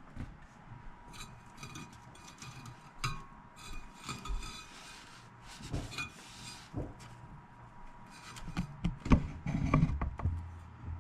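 Disinfecting wipe rubbing and scraping inside a stereo receiver's metal chassis in short, irregular strokes, with a few knocks near the end.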